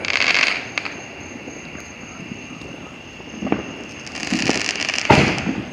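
Fireworks going off: a crackling burst at the start, a small pop, more crackling about four seconds in, then a sharp bang near the end.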